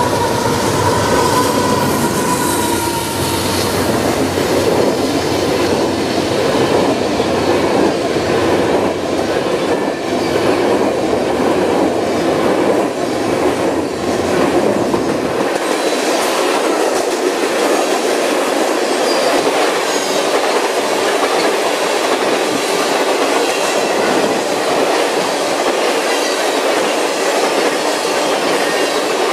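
Union Pacific freight train passing at speed: the deep rumble of the diesel locomotives gives way to a long run of tank cars, their wheels clattering and rumbling over the track. The deep rumble drops out about halfway, leaving a steady rolling clatter.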